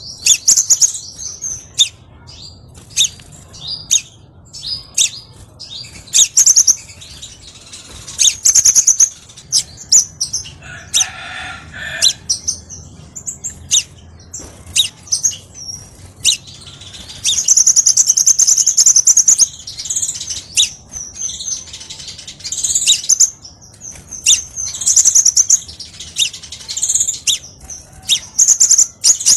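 Crimson sunbird (kolibri sepah raja) song: rapid, high-pitched chirps and fast trills in short repeated bursts, with a lower call about eleven seconds in.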